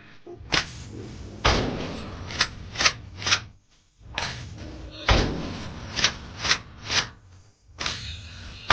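A repeating run of thuds, one heavy knock followed by three lighter ones, the group coming round about every three and a half seconds.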